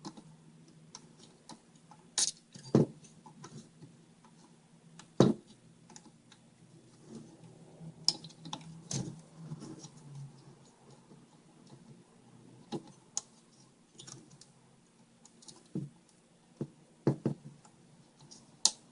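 Scattered light clicks and taps of hand tools against a circuit board while a capacitor is desoldered from a TV power board, a handful of sharper ones spread irregularly through, over a faint steady low hum.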